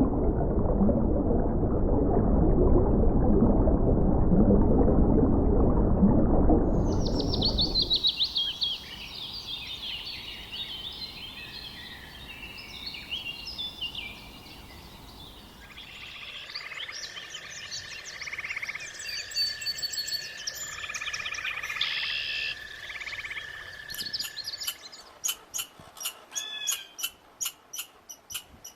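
A loud, dense low noise for about seven seconds, then small birds chirping and singing, with a steady whistled tone partway through and a quick run of sharp clicks near the end.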